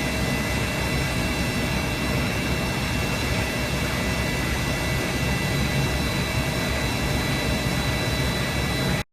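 Machine tool running steadily during machining of a rotary-engine eccentric shaft: a constant noise with steady high-pitched whine tones. It cuts off abruptly near the end.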